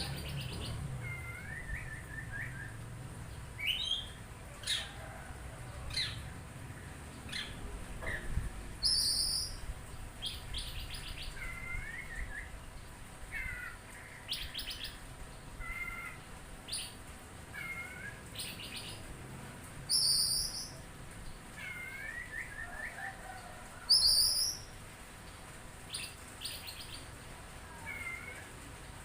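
Oriental magpie-robin (kacer) singing a varied string of short chirps, trills and whistles, one phrase every second or so. The loudest phrases are high rising whistles, near the middle and twice towards the end.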